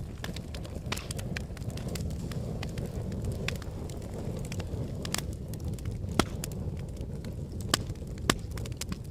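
Volcanic eruption: a steady low rumble with dense crackling and popping, and three louder sharp cracks in the second half.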